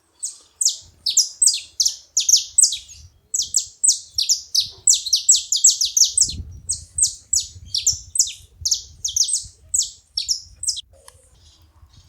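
Saffron finches calling, a rapid run of high, sharply falling notes with a short break about three seconds in.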